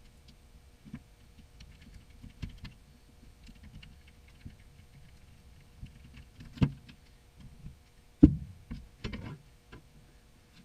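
Irregular knocks and clicks, spaced unevenly over a quiet background, the loudest about eight seconds in and a cluster just after it.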